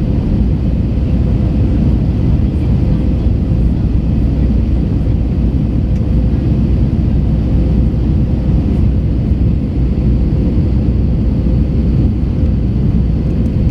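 Airbus A321 cabin noise in flight: a steady, loud low rumble of engines and airflow heard from inside the cabin, with a constant hum tone running through it.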